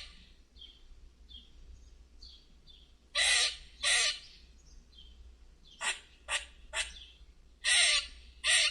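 Squirrel calling: seven short, harsh, raspy calls in ones and pairs, beginning about three seconds in, with faint high chirps in the gaps before them.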